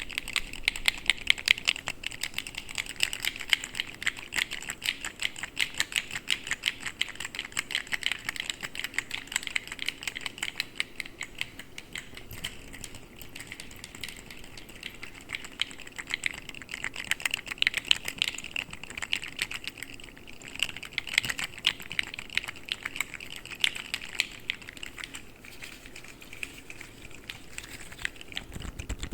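Fidget slug toys being handled, giving a rapid, continuous run of light plastic clicks and rattles.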